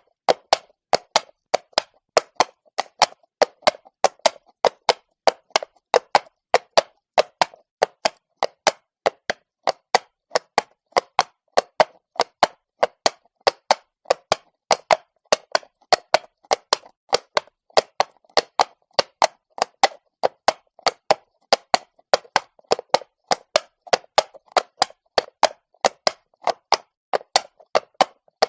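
Horse's shod hooves striking stone at a walk, a steady rhythm of sharp clops, about three to four strikes a second.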